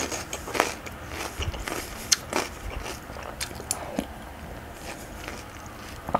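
Close-miked wet chewing and small sharp mouth clicks of someone eating chicken soup with soft potato and vegetables from a spoon.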